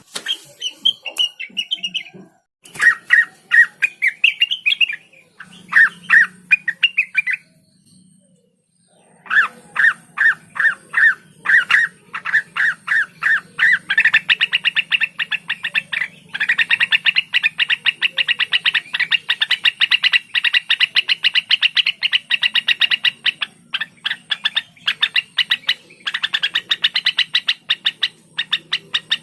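Cucak wilis (blue-winged leafbird) singing: varied phrases of sharp, repeated notes, a brief pause, then a long, very fast rattling run of notes.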